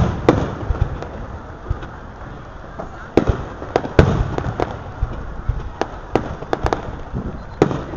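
Aerial fireworks shells bursting in rapid succession: a dozen or more sharp bangs with rumbling echoes between them, the loudest right at the start and about four seconds in.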